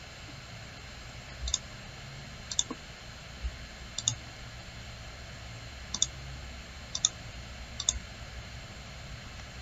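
Computer mouse clicking: about six short, sharp clicks spaced irregularly about a second apart, each a quick double tick of press and release, over a faint steady low hum.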